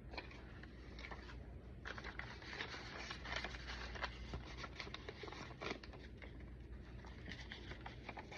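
Paper rustling and crinkling, with light scrapes and small taps, as the pages and tucked-in papers of a handmade junk journal are handled.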